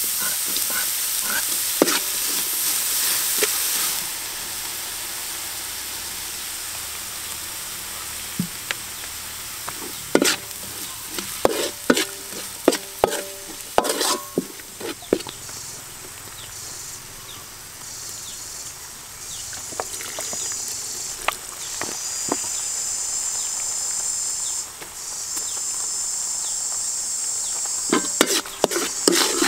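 Chopped shallots and garlic frying in hot oil in a steel wok. They sizzle loudly as they go in, then settle to a quieter sizzle. A spatula scrapes and taps against the pan now and then as they are stirred.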